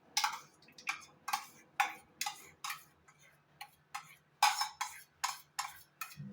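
A spoon scraping and knocking curd out of a measuring cup into a mixing bowl, in short strokes at about two to three a second.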